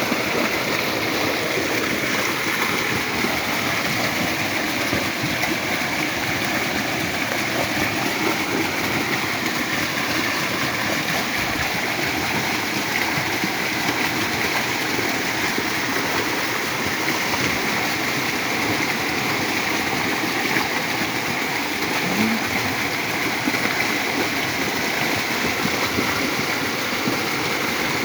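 A creek swollen by heavy rain, in flood, with its water rushing steadily.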